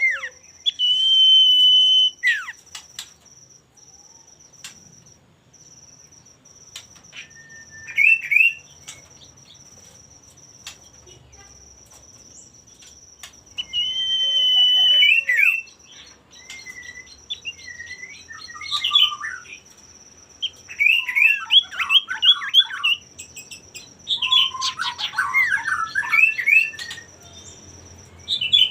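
Male common iora (cipoh) singing in full voice: clear whistled notes, with a long held whistle about a second in, then short sliding whistles that grow into quicker, busier phrases in the second half. A faint steady high whine runs behind the song.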